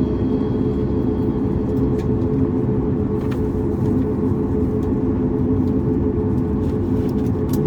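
Steady cabin rumble of a Boeing 737 MAX 8's CFM LEAP-1B engines running at ground idle, heard inside the cabin from a window seat, with a few faint clicks.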